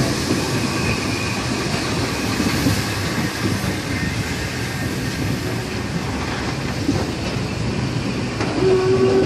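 Museum railway train running along the track, a steady rumble of the carriage on the rails. A steady tone joins in near the end.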